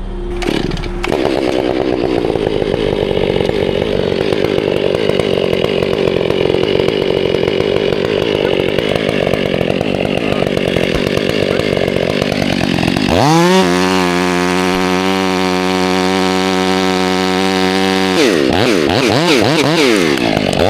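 A chainsaw runs. Its note wavers unevenly at first, as it does under load in a cut. About two-thirds of the way through it holds a steady high rev for a few seconds, then wavers up and down again near the end.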